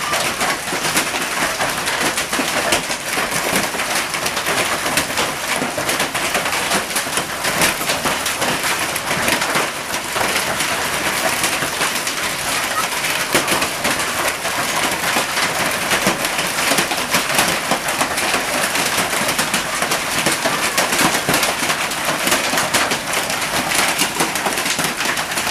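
Heavy hailstorm: a dense, unbroken clatter of hailstones and rain hammering down, with countless sharp hits of large, golf-ball-sized hail.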